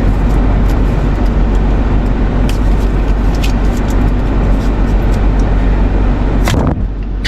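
Steady rumble and hiss inside a car with the engine running, with a few faint clicks; the noise dips briefly near the end.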